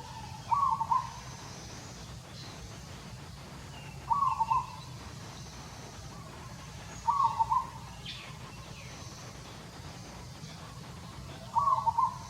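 A bird calling: one short phrase of a few quick notes, given four times, about every three to four seconds.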